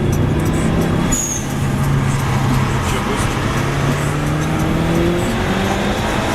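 Subaru Legacy Blitzen's engine pulling the car under gentle acceleration in the cabin, its note slowly rising in pitch, with a brief high chirp about a second in.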